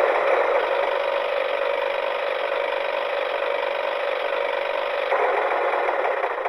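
Toy tractor pulling trolleys, running with a steady grinding, rattling mechanical noise from its gears and rolling wheels.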